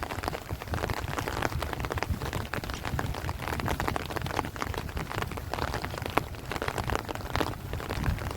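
Heavy rain falling steadily on rice plants and trees: a dense, continuous patter of drops, over a low rumble of wind.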